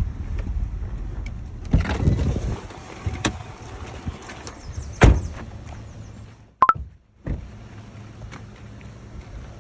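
Low vehicle rumble with wind noise, fading over the first couple of seconds, broken by three sharp thumps or knocks. Past the middle there is a brief high blip, and the sound cuts out almost completely for a moment before a quieter background returns.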